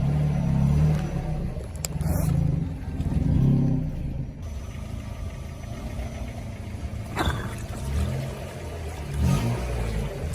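A vehicle engine running with a low rumble, its pitch rising and falling a few times near the end.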